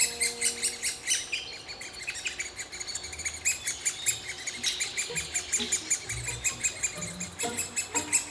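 Great spotted woodpecker nestlings begging, a rapid, unbroken stream of short high chirps repeated many times a second.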